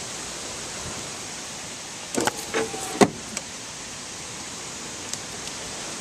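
Steady rush of wind through trees. About two seconds in a door is opened: a few clicks, a short squeak, then a sharp clunk about three seconds in.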